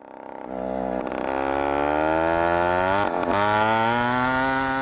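Stihl MS440 two-stroke chainsaw engine on a motorized bicycle running at high revs. Its pitch climbs steadily, drops briefly about three seconds in, then climbs again.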